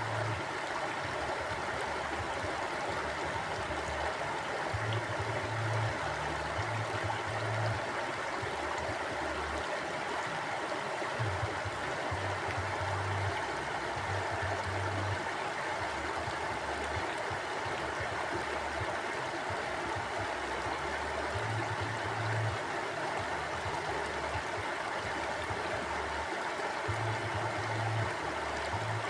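Mountain river flowing: a steady, even rush of running water, with a low rumble that swells and fades every few seconds.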